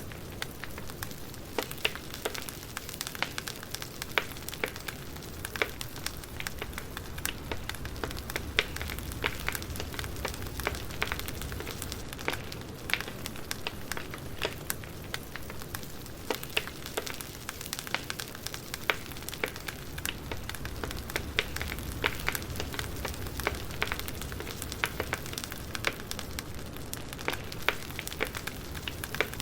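Wood fire crackling: a steady low hiss and rumble with frequent irregular sharp pops and snaps.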